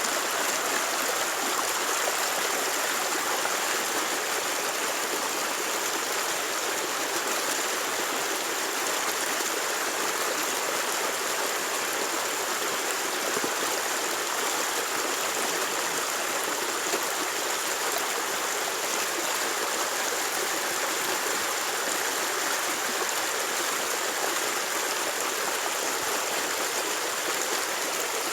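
Steady rushing noise with no breaks or separate knocks, like flowing water.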